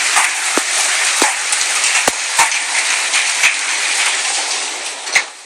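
Large hailstones, golf ball to baseball sized, pelting the house in a heavy downpour: a steady hiss of hail and rain with separate hard knocks every half second or so. The hiss drops off about five seconds in.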